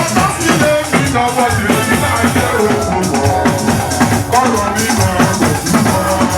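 Live church music: drums and shakers playing a steady beat, with voices singing over them.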